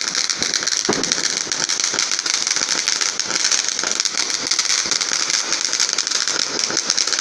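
Fireworks crackling: a dense, steady crackle of many small rapid pops that keeps up without a break.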